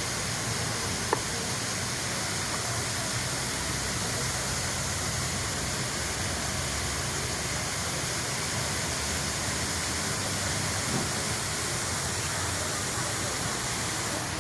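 Waterfall: water falling and rushing in a steady, even noise, with one short click about a second in.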